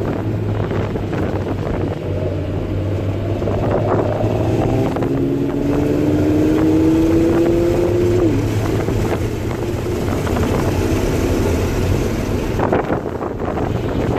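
Honda S2000's F22C 2.2-litre four-cylinder engine, with an aftermarket intake and header, heard from inside the cabin while lapping a track, with wind noise. About four seconds in it pulls up through the revs under acceleration, its pitch climbing steadily until it drops sharply at a gear change a few seconds later.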